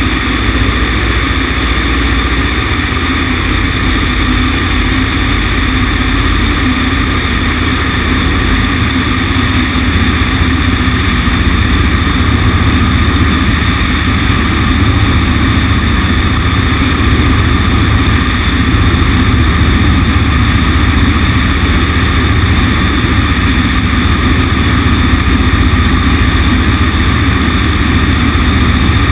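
Cessna 150's four-cylinder Continental O-200 engine and propeller running steadily, heard from the wing-mounted camera outside the cabin. The engine is mixed with a constant rush of air over the camera, and gets a little louder about halfway through.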